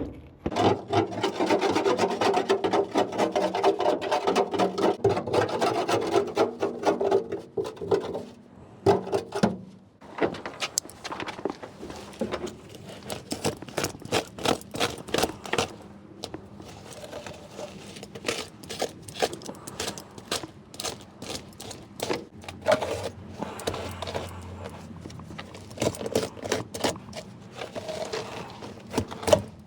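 Rubbing and scraping as old carpet and debris are cleared out of a truck's cab floor. It is dense and continuous for about the first eight seconds, then breaks into scattered knocks, scrapes and rustling.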